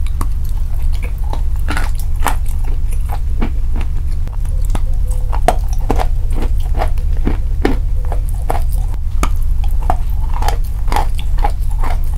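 Close-up biting, crunching and chewing of chocolate-coated chalk bars: irregular crisp crunches, two or three a second, over a steady low hum.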